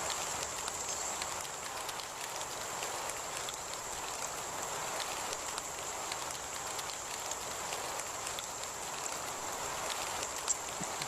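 Heavy rain falling steadily, many small drop impacts ticking through the hiss, with a thin steady high-pitched tone over it. A single sharper tick comes near the end.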